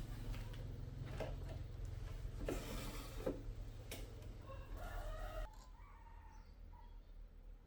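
A few sharp knocks and clicks over a low steady hum, which drops off about five and a half seconds in. Around the same moment comes a short pitched animal call, with a fainter one just after.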